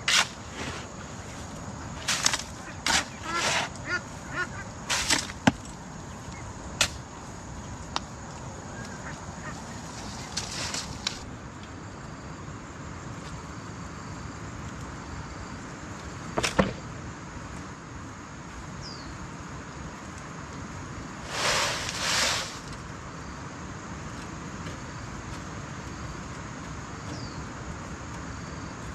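Intermittent knocks and scrapes of hand work, bunched in the first few seconds, with one sharp click near the middle and a short rasping scrape later on, over a steady background hiss and a faint high steady whine.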